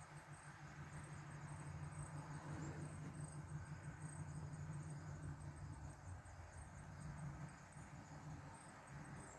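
Crickets chirping faintly, a steady run of short high-pitched pulses, over a low steady rumble.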